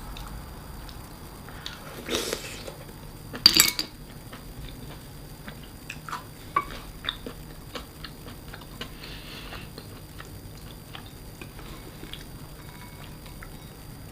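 Close-up eating sounds: a short rustle, then a sharp clink against a dish about three and a half seconds in, followed by scattered small clicks of utensils and clam shells and soft chewing.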